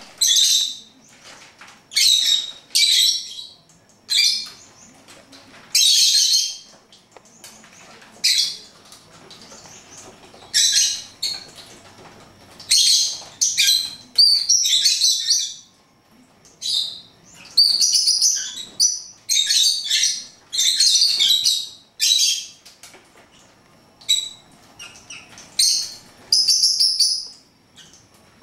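Pet birds chirping in short, high-pitched bursts, repeated irregularly every second or two with brief pauses between.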